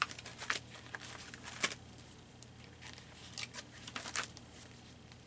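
Paper rustling and crinkling in short, sharp bursts, about five of them, as loose paper pieces are handled and sorted, over a faint steady hum.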